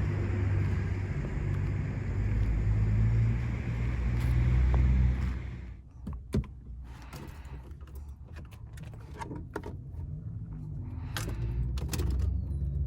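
Volkswagen Gol G4 running on the move, a steady low engine drone with road noise heard from inside the car. About six seconds in it drops off suddenly to a quieter low rumble with scattered clicks and knocks, the sharpest just after the drop and a few more near the end, before the rumble builds again.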